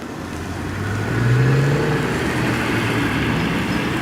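Aston Martin driving past slowly and very quietly under light throttle, typical of a sighting lap. Its engine note rises a little and grows louder about a second in, then holds steady.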